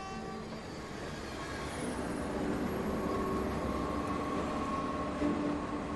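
Passenger train running along the track, its rumble building over the first two seconds and then holding steady.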